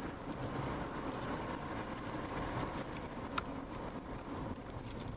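A tornado's loud, steady roar, a continuous rumbling noise, with a single sharp click about three and a half seconds in.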